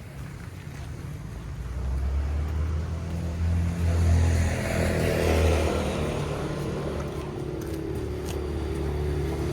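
A motor vehicle's engine coming closer and passing by, loudest about four to six seconds in, its low hum running on after.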